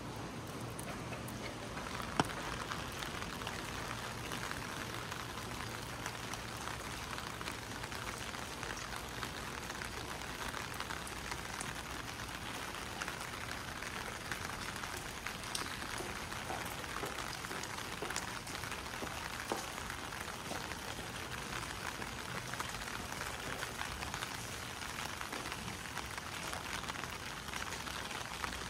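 Steady rain falling, with scattered drops ticking on hard surfaces and a single sharp click about two seconds in.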